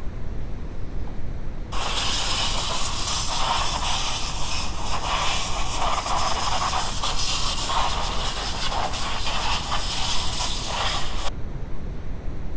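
A loud, steady hiss that starts suddenly about two seconds in, runs for about nine seconds and cuts off sharply, over a constant low rumble.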